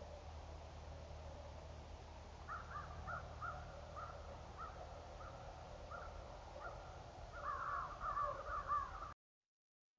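Birds calling: a string of short, evenly spaced calls, then a quick flurry of calls near the end, after which the sound cuts out abruptly.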